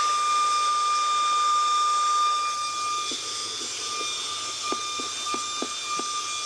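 Bayu cordless handheld car vacuum running at raised suction with its brush attachment: a steady airflow hiss over a high, steady motor whine. Several short light ticks come in the second half.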